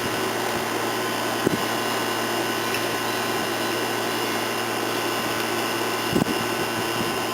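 A steady mechanical whirr from a running motor, unchanging throughout, with two light knocks, one about a second and a half in and one near the end.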